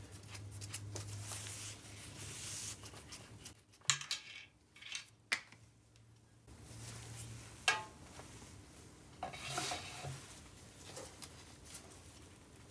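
Quiet clatter of a hose and containers being handled while siphoning settled water out of the bottom of a scissor lift's hydraulic fluid tank: scattered light clicks, knocks and brief scrapes over a faint low hum.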